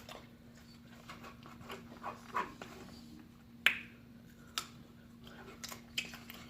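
Close-up eating sounds: chewing and biting, with scattered small clicks. One sharp click a little past the middle is the loudest sound. A faint steady hum runs underneath.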